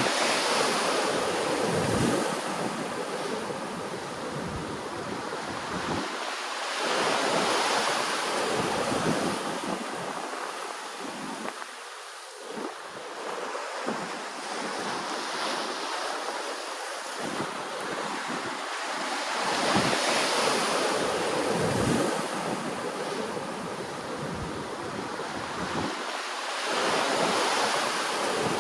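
Ocean waves breaking and washing ashore, the surf swelling and ebbing every few seconds, with wind rumbling on the microphone.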